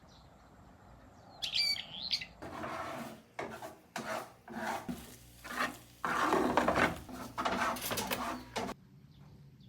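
A small bird gives a short high chirping call, then comes a run of irregular scraping and rustling strokes lasting several seconds that stops abruptly near the end.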